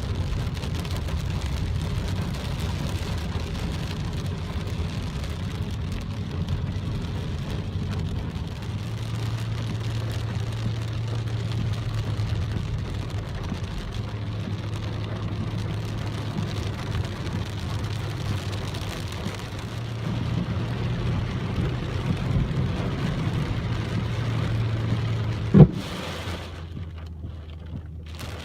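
Steady rain noise over a low rumble and a steady low hum. A sharp click near the end, after which the sound turns quieter and duller.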